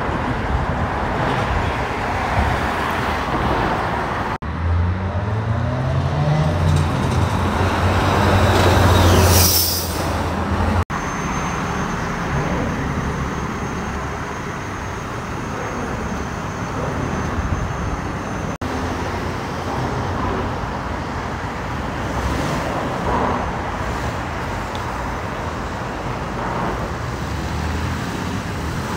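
Steady road traffic passing. From about four seconds in, a large vehicle's engine note rises in pitch in steps and grows louder, peaking near ten seconds before it cuts off abruptly.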